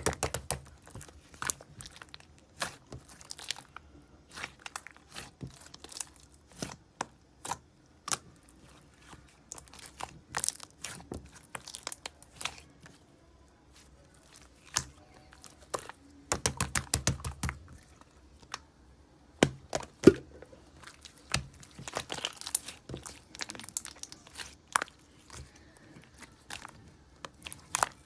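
Slime being squished and stretched by hand, giving irregular sharp clicks and crackles as trapped air pockets pop, with a dense run of them about two-thirds of the way in.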